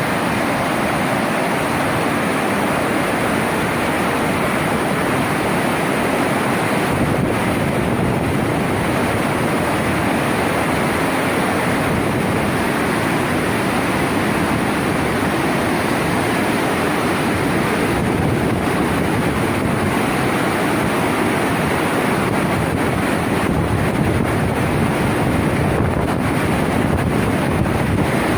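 Floodwater rushing along in a flash-flood torrent, a loud steady wash of noise that does not let up.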